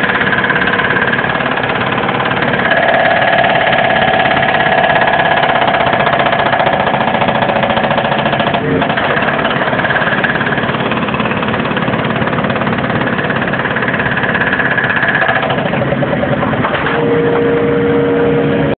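Case 580M backhoe loader's diesel engine running under load while its hydraulic concrete breaker works, a steady, loud, dense clatter with a brief break about 9 s in and shifts in pitch about 3 s in and near the end.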